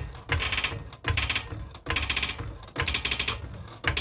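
Worn front lower-control-arm ball joint on a GMC Terrain creaking as the suspension is worked, about five grating creaks at an even rhythm. The ball joint is worn and is the cause of the creaking over bumps and when turning.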